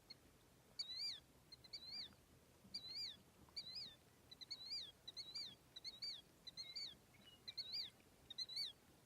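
A bird chirping over and over: short, identical rising-and-falling chirps, about one to two a second, that stop shortly before the end.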